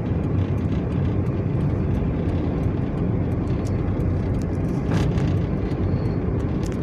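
Steady low rumble of a car driving, heard from inside, with faint scattered clicks and a brief hiss about five seconds in.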